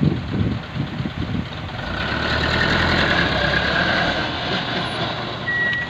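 Dump truck diesel engine running, louder from about two seconds in. A short high tone sounds near the end.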